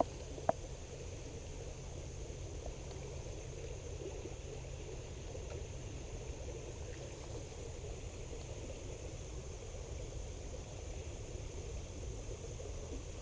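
Steady rush of river water flowing around rocks, with one light click about half a second in.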